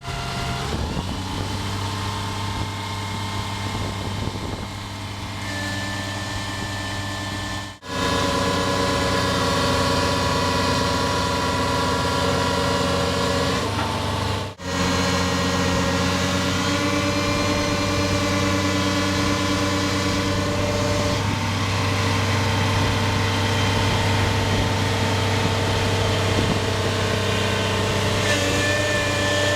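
Diesel engine of an excavator-based wick drain installation rig running steadily at a constant speed. The sound cuts out briefly twice, and is a little louder after the first break.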